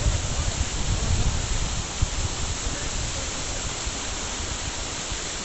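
Steady rushing hiss like running water, with irregular low rumbling on the microphone that dies away about two seconds in.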